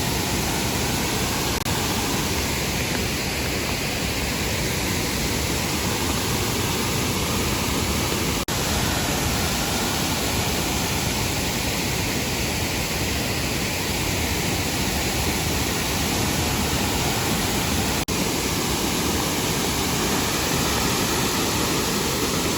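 Shifen Waterfall's falling water rushing in a loud, steady roar, broken twice by a momentary dropout.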